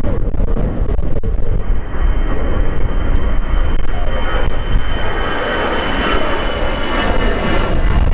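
Airliner engines running with a steady low rumble and a thin, steady high whine. Wind buffets the microphone throughout.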